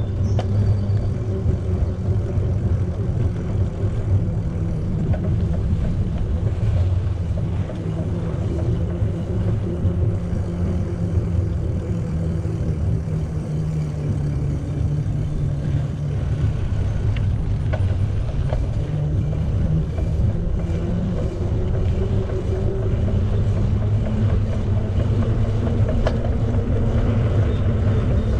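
Steady low rumble of a bicycle being ridden: wind buffeting the camera's microphone along with tyres rolling on pavement.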